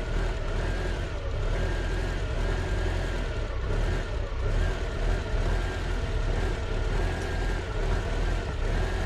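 Volvo 340's B14.4E 1.4-litre four-cylinder petrol engine idling roughly, with a faint tone that rises and falls about once a second; the rough idle is caused by dirt in the idle solenoid.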